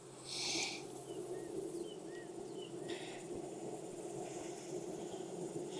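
A honeybee colony buzzing steadily in an open hive, a low even drone. A few short high chirps sound in the first half, and brief hissy rustles come near the start and about three seconds in.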